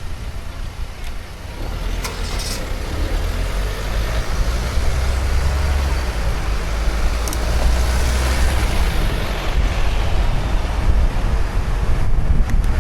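Steady outdoor rumble of road traffic and wind, with a deep low rumble that swells from about a second and a half in and stays loud.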